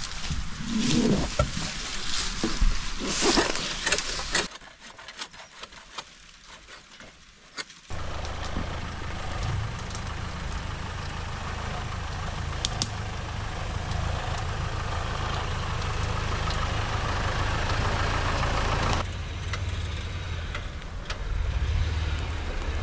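Leafy branches rustling and cracking as they are pulled aside. After a few quiet seconds, a Mitsubishi Pajero's engine starts to be heard, running steadily at low speed as the vehicle creeps through the brush.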